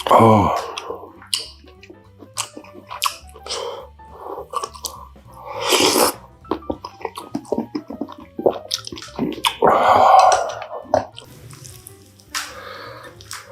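Close-miked eating: chewing with many small crisp clicks and crunches. There are louder bursts at the start, about six seconds in and about ten seconds in.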